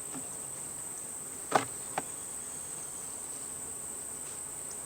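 Two sharp wooden knocks, about a second and a half and two seconds in, as a beehive frame is set into the box, over a steady high-pitched insect hum.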